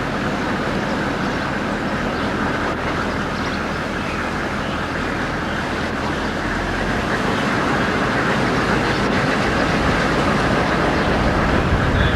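Steady rumbling noise of a moving vehicle, road and engine noise, growing a little louder near the end.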